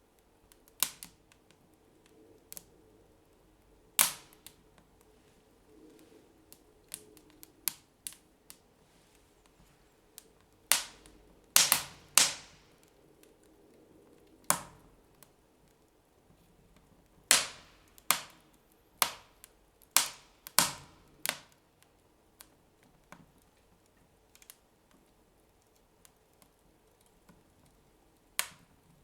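Wood fire burning in a fireplace, crackling: irregular sharp pops and cracks, a few loud ones coming in quick succession.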